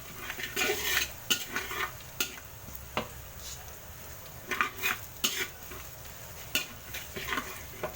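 Garlic frying in cooking oil in a pan, sizzling under a steady hiss, while a utensil stirs and scrapes against the pan in irregular strokes. The garlic is being toasted until golden brown.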